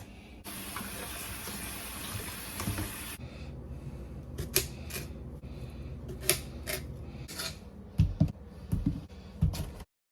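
Water running for about three seconds, then scattered clicks and clinks of dishes and objects being handled, with a few dull thumps near the end; the sound cuts off abruptly.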